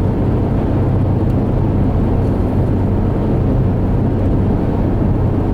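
Steady road and engine noise of a car driving at highway speed, heard from inside the cabin: an even rumble with a constant low hum.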